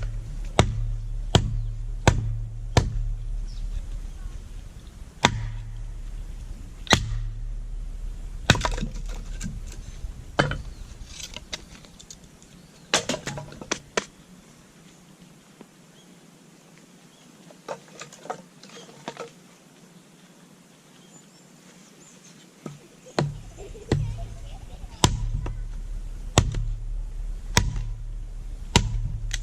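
Firewood being split by hand: sharp wooden knocks with a dull thud under each, in runs of about one and a half strikes a second. They stop for several seconds midway, leaving a few small clicks, and start again near the end.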